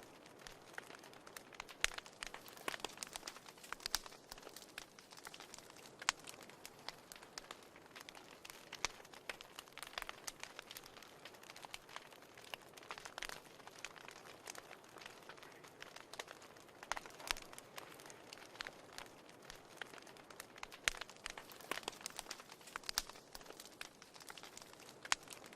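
Wood fire in a fireplace crackling, with irregular sharp pops and snaps over a soft hiss.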